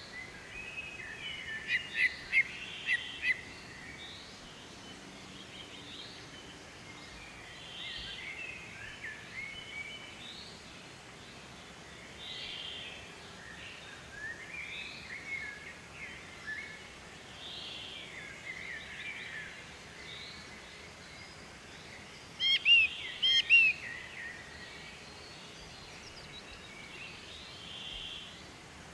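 Several birds chirping and calling over a faint steady hiss, with louder runs of sharp chirps about two seconds in and again about three-quarters of the way through.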